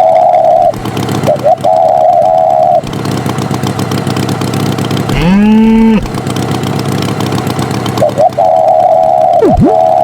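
Cartoon sound effects: a motor running steadily under a wavering, horn-like tone that sounds in stretches, with a rising swoop about halfway through and two quick falling swoops near the end.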